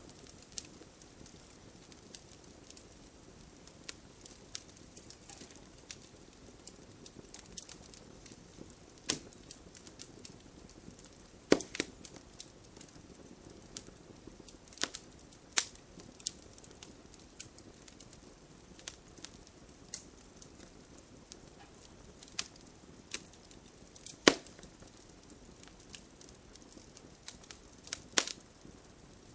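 Wood fire crackling in a fireplace: irregular sharp pops and snaps over a soft steady rustle of flames, with the loudest pops about 11 and a half and 24 seconds in.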